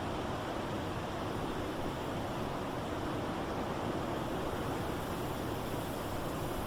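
Blizzard wind blowing steadily: a continuous, even rushing noise with no gusts or breaks.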